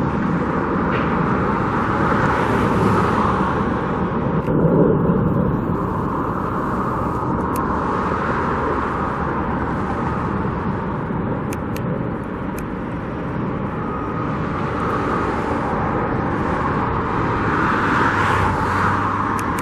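Road traffic: cars passing one after another, the noise swelling and fading as each goes by.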